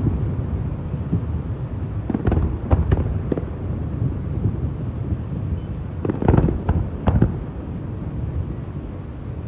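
Aerial fireworks display: a continuous low rumble of shell bursts, with clusters of sharp cracks about two seconds in and again about six seconds in.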